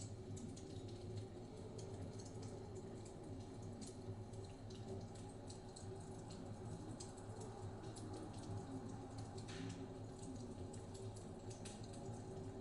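Wood fire crackling in a fireplace: irregular small pops and snaps, one fuller snap about three-quarters of the way through, over a steady low rumble of blizzard wind.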